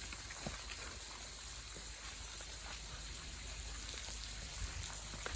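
Water dripping inside a cave: scattered faint drips over a steady hiss.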